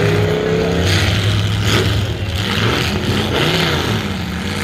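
Demolition derby car engines running and revving hard, with a rising whine near the start and a couple of short knocks in the first two seconds.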